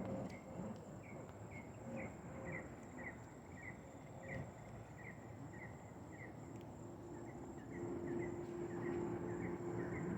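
Insects chirping in a steady rhythm, about two short chirps a second, over a thin, steady high whine. A low, steady hum comes in during the second half.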